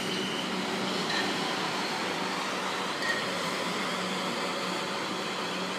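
South West Trains Class 444 Desiro electric multiple unit running past, a steady rumble of wheels on the rails with a faint low hum underneath.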